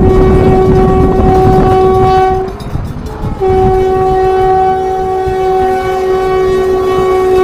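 Train horn sounding two long blasts over the heavy rumble of a train. The first blast breaks off about two and a half seconds in, and the second starts about a second later.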